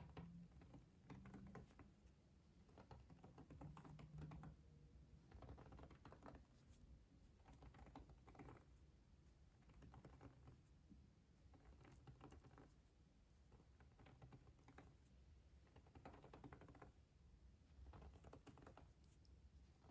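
Quiet ASMR trigger sounds: soft clicks and taps in short clusters, about one cluster every one to two seconds.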